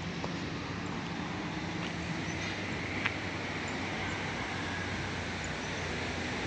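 Steady street ambience: an even hiss with a low steady hum like passing traffic, and one sharp click about three seconds in.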